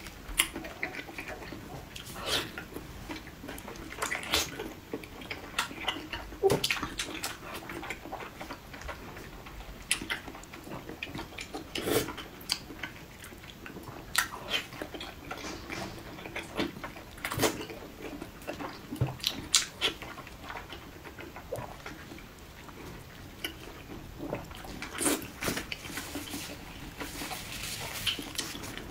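Close-miked eating sounds: wet chewing and mouth smacks, with sharp clicks every second or two.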